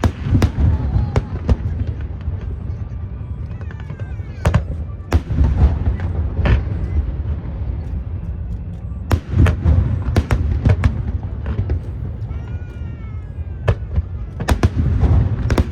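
Aerial fireworks display: shells bursting in a rapid, irregular series of sharp bangs over a continuous low rumble and crackle, with a few brief gliding whistle-like tones between the bursts.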